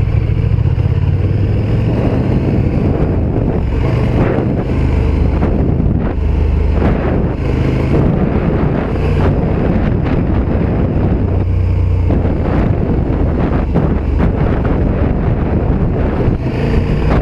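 KTM 1290 Super Duke R EVO's V-twin engine running while riding, its note shifting up and down with the throttle several times, with wind rushing over the microphone.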